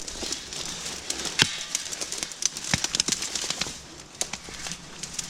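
Someone pushing through dense undergrowth on foot: twigs and dry stems crackling and snapping, with leaves brushing, and a couple of sharper snaps about a second and a half and three seconds in.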